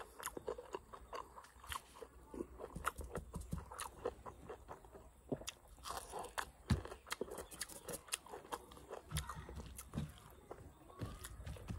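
Close-up mouth sounds of a person chewing mutton curry and rice eaten by hand: many short, irregular clicks and smacks as he bites and chews.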